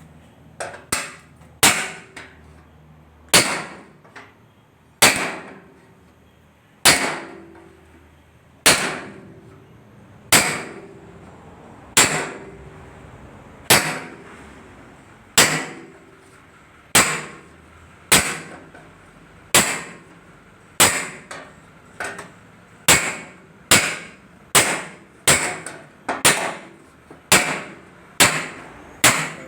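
Hammer blows on the sheet metal of a car bonnet while vent holes are cut into it: single sharp metallic strikes, each ringing briefly, about one every second and a half at first and coming faster in the second half.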